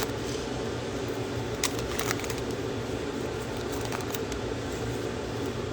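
Steady hum of a room fan or ventilation unit, with a few light clicks, about four scattered through, of trading cards being handled.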